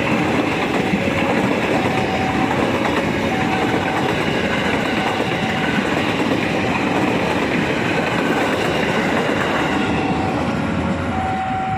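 Train running along the rails, its wheels clattering over rail joints. Under it, a two-tone warning alarm alternates between a lower and a higher note, each held about half a second.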